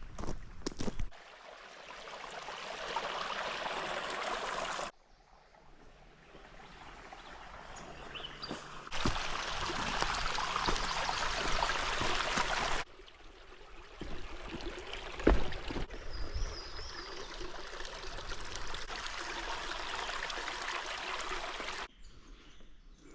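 Running water, a steady rush and trickle of a stream, heard in several stretches that cut in and out abruptly, with a few brief knocks.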